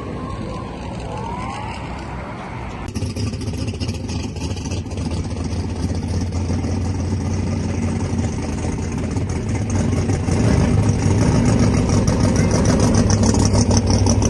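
Car engine running with a steady low drone that starts abruptly about three seconds in, grows louder and levels off about ten seconds in, with a hiss over it.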